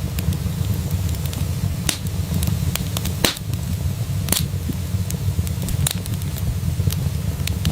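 Wood fire crackling in a fireplace: a steady low rumble of burning with scattered sharp pops and crackles, two louder pops near the middle.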